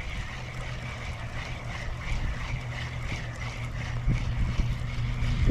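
Steady low motor hum, with a faint, quick ticking repeating above it.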